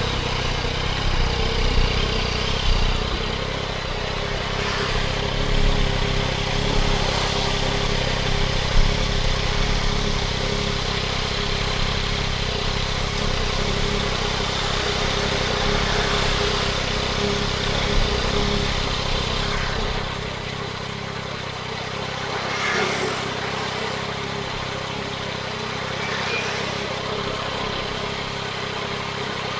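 The 2024 Yamaha MT-09 SP's inline-three engine, breathing through a Spark triple-exit exhaust, is running on the move under a steady hiss. About twenty seconds in, the low engine rumble drops back and the bike goes quieter.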